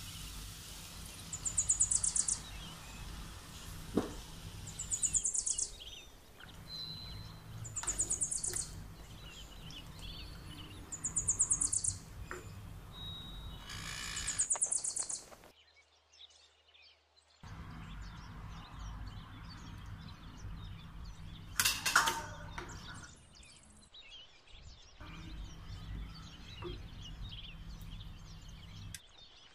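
A bird calling with a high, rapid trill about a second long, repeated every three seconds or so, over a steady low hum. A loud clatter comes a little over 20 seconds in.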